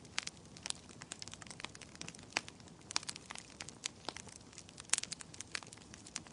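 Wood fire crackling: irregular sharp pops and snaps over a faint steady hiss, with a few louder pops about two and a half, three and five seconds in.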